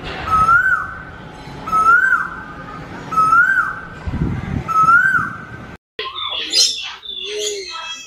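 A bird whistling the same short rising-then-falling note over and over, about every one and a half seconds. Near the end it cuts off abruptly and gives way to a jumble of chattering and squawking bird calls.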